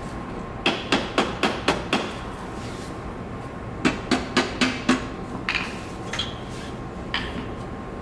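Hammer blows on car-body metal: a quick run of about six strikes, a second run of about five a few seconds in, then a few single strikes, each with a short metallic ring.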